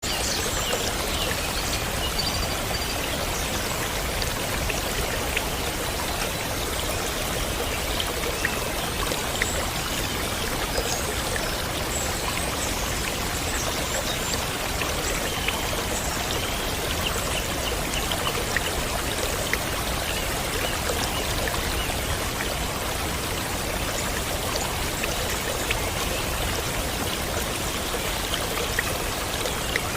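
Stream of water flowing steadily, with faint short high chirps now and then.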